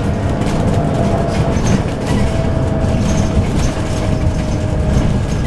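Scania N280UD double-decker bus with a 9-litre Scania OC09 biogas engine and ZF Ecolife six-speed automatic, driving along, heard from inside the passenger saloon: a steady rumble of engine and road noise. A faint thin whine comes and goes over it.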